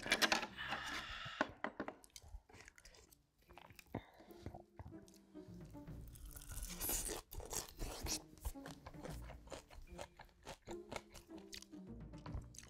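Close-miked eating: crunchy bites and chewing, loudest in the first second or so and again about six seconds in.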